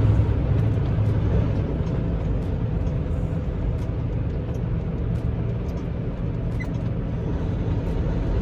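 Semi truck's engine and road noise heard from inside the cab, running steadily with a low hum.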